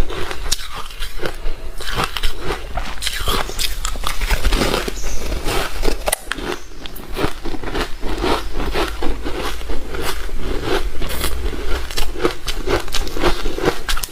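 Ice being bitten and chewed, with dense, irregular crunching and crackling all through.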